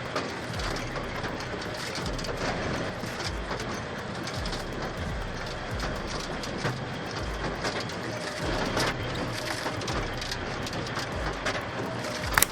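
Firewood processor at work: steady machine noise with irregular knocks and clatters of wood, and a sharp crack at the very end.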